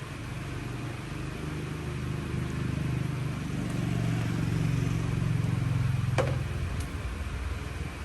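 An engine running with a low hum that grows louder over several seconds and falls away after a sharp click about six seconds in.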